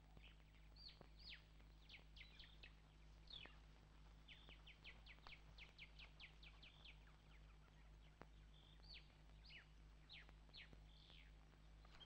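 Faint wild birdsong: many short, quick whistles that fall in pitch, coming in bursts, over a steady low hum.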